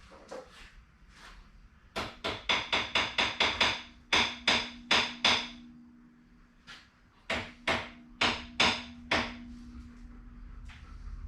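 Hammer blows on metal with a ringing note: a quick run of about a dozen strikes starting about two seconds in, a short pause, then about half a dozen more.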